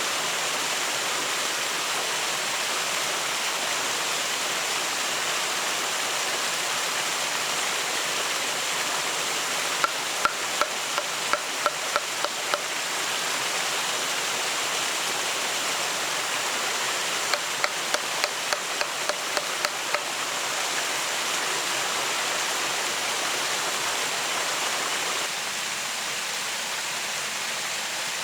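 A steady rushing noise, like running water or rain. Two runs of quick, sharp knocks, about three or four a second, come in around the middle.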